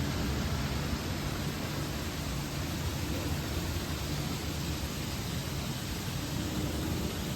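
Steady rushing of water from a small waterfall, an even unbroken noise.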